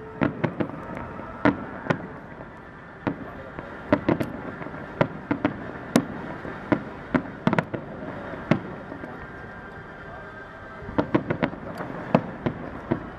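Fireworks display heard from a distance: a string of sharp bangs from bursting shells at irregular intervals, with a quick cluster of bangs near the end, over a steady background murmur.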